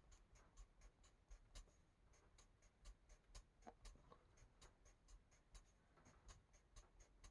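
Faint, quick strokes of an Ohuhu marker tip on paper, several short scratchy ticks a second as small areas are coloured in.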